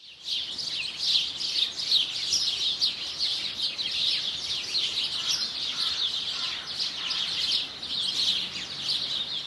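Many small birds chirping together: a dense, continuous chorus of quick, high chirps.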